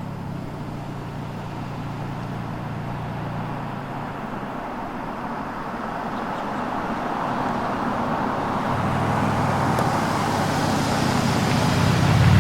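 Ford Edge Sport's V6 engine and exhaust running, a steady low drone under a rushing noise that grows gradually louder.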